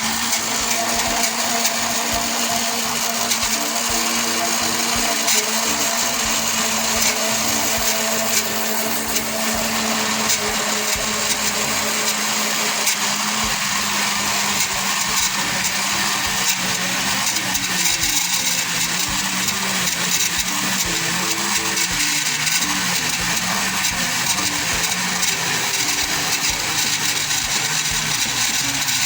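Countertop blender running continuously, beating a batter of eggs, oil, milk and flour, with flour being added as it runs. Its motor hum wavers and dips slightly in the second half as the batter thickens.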